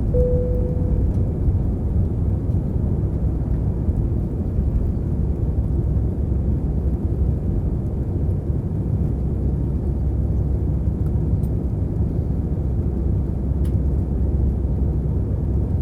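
Steady engine and airflow noise inside the cabin of an Airbus A319-100 in flight after takeoff, deep and even with little change. A brief steady tone sounds once at the very start.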